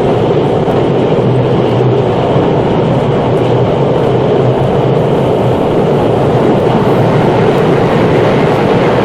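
Train running sound: a loud, steady rumble that holds level without breaks.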